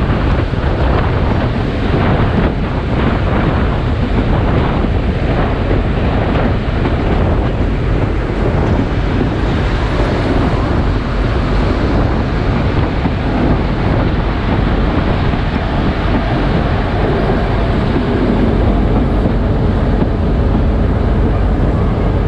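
Passenger train running at speed: a steady rumble of the moving carriage, with heavy wind buffeting the microphone.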